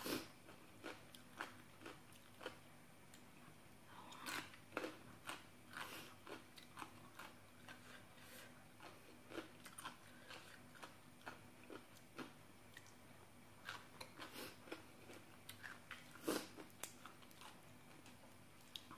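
Faint, close-up chewing of crunchy papaya salad: irregular soft, wet mouth clicks and crunches.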